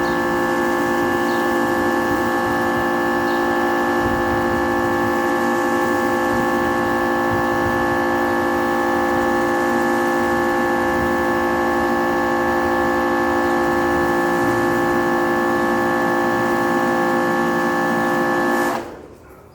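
Kärcher K3.30 electric pressure washer running under load, a steady motor-and-pump hum that stops suddenly near the end.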